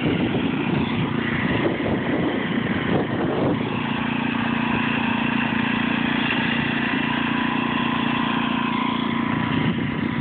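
Small tractor engine running continuously, its pitch wavering for the first few seconds and then holding steady.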